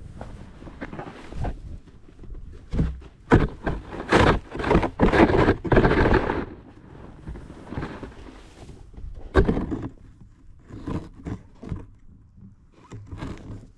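Snow shovel scraping and knocking on a driveway in irregular strokes, with a sharp knock partway through.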